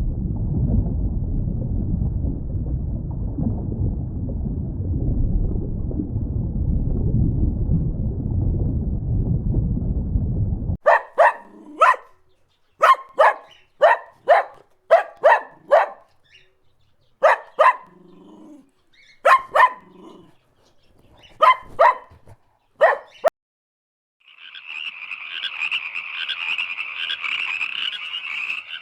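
Animal sounds from separate clips. A low rumbling noise cuts off after about eleven seconds. It is followed by a string of short, sharp animal calls, some in quick pairs. Then, near the end, a steady high chirring chorus begins.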